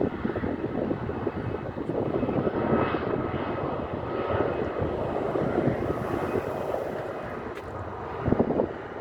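Airbus A319-100 jet engines at takeoff power: a steady, loud jet rumble with faint whining tones above it. A brief louder burst comes near the end.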